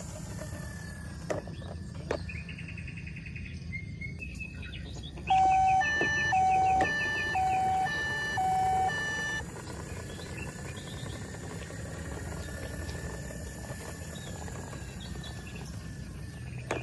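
Electronic toy siren sounding a two-tone hi-lo pattern, about four cycles over four seconds, starting about five seconds in. A steady low rumble runs underneath.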